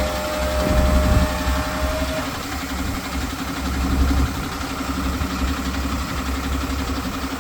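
Tata Daewoo Prima 4.5-ton cargo truck's diesel engine idling steadily with an even rhythmic rumble, with a steady whine that stops about two seconds in.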